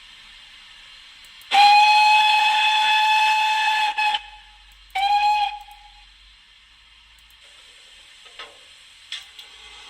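DCC sound decoder in a model BR Standard Class 9F steam locomotive playing its steam whistle through the model's small speakers: one long steady blast of about two and a half seconds, then a short blast, over a faint steam hiss.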